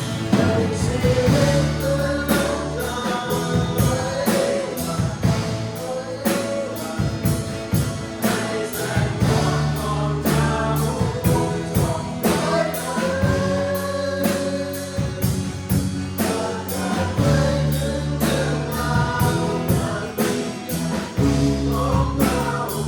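Live worship band playing with singers, a steady drum beat and bass under a sung melody.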